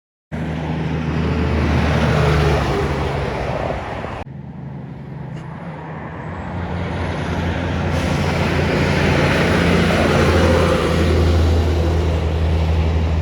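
Heavy trucks passing on a road: a low diesel engine hum under tyre and road noise. It starts suddenly, changes abruptly about four seconds in, then grows louder toward the end as another truck approaches and passes.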